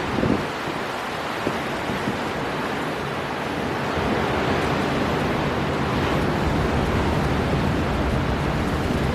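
Storm wind blowing hard over breaking surf: a steady, dense rush with a low rumble, swelling a little about four seconds in, with a couple of dull thumps near the start.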